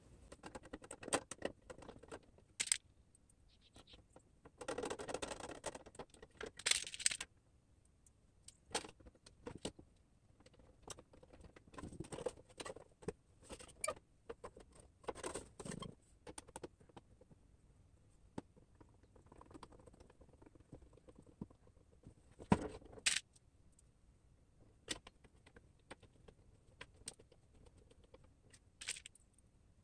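Metal license plate pieces and small screws being handled, clinking and tapping now and then, with a denser rattle lasting about a second around five seconds in.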